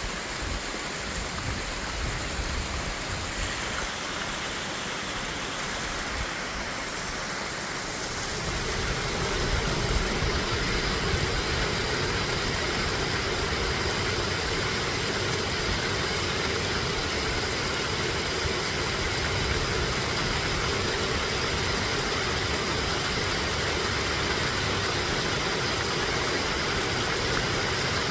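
Steady rush of flowing water, louder from about eight seconds in.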